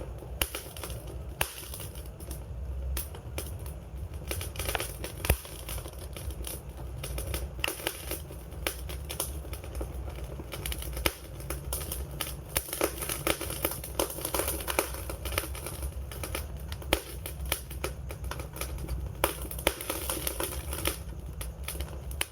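Wood fire crackling and popping: a dense, irregular run of sharp snaps over a steady low rumble of burning flames.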